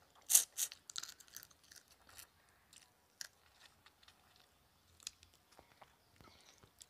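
A person chewing a mouthful of food close to the microphone: a burst of crisp crunches in the first second or so, then sparser, softer chewing clicks.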